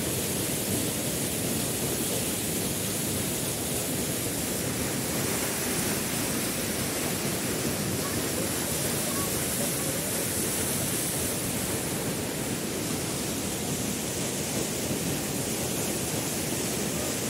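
Close-up rush of a mountain waterfall: a steady, unbroken roar of falling water.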